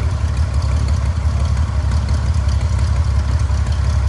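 1948 Cessna 170's six-cylinder Continental C-145 piston engine running steadily with an even low-pitched pulsing.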